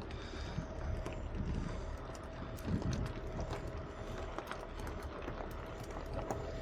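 Heavy diesel truck engine idling with a steady low rumble and a faint steady whine, with scattered light clicks and knocks.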